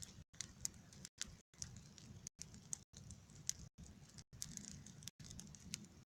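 Campfire crackling: irregular sharp pops and ticks of burning wood over a low hiss, with the sound cutting out briefly several times.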